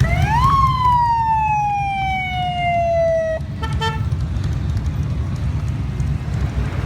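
A vehicle siren winds up quickly, then falls slowly in one long wail that cuts off suddenly, followed by a brief short tone. Under it runs a steady low rumble of motorcycle engines.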